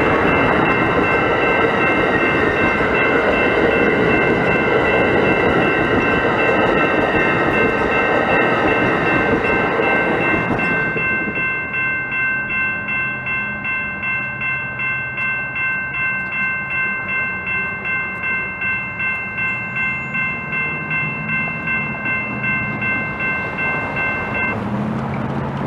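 A train passing with a loud rumble, while a ringing of several steady tones pulses about twice a second. About eleven seconds in, the train noise drops away abruptly and the pulsing ringing carries on alone over a low rumble until a sudden cut.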